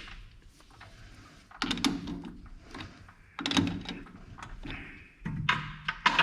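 A few separate knocks and clatters of metal tools and parts being handled at a metal lathe.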